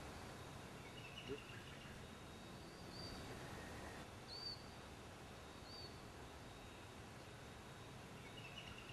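Faint outdoor background hiss with a few distant bird calls: short chirps near the start and near the end, and three brief high whistled notes in the middle.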